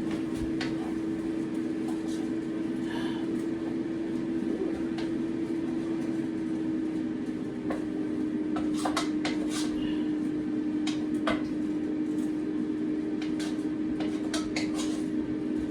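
A spoon stirring in a cooking pot, with scattered clinks and knocks of utensil against metal, over a steady low hum.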